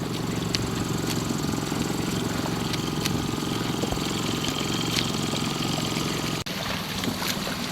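Boat engine idling steadily in neutral, with a brief dropout about six and a half seconds in.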